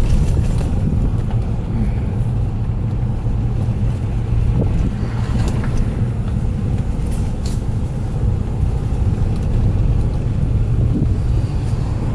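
Steady low rumble of a car driving, road and wind noise buffeting the microphone, with a few faint ticks or rattles.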